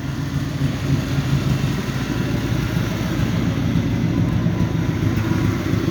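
Chevrolet Opala Diplomata engine idling with a steady low rumble, running smoothly and evenly.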